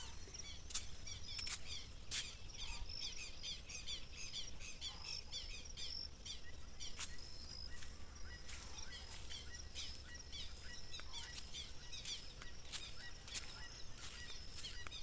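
Several small birds chirping and singing together, a dense run of short, high chirps overlapping one another, over a low steady rumble.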